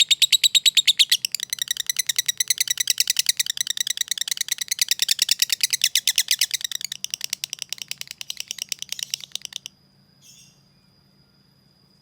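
Lovebird giving its long, rapid 'ngekek' chatter: a fast, even run of sharp high chirps, about ten a second, that stops abruptly near the end.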